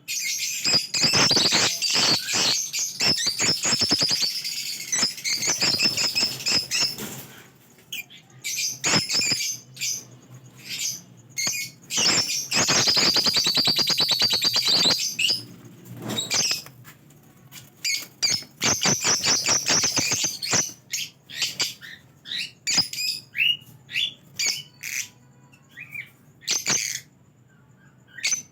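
Many lovebirds in a colony chirping and chattering at once, high-pitched, in long dense stretches that thin out to scattered single chirps near the end.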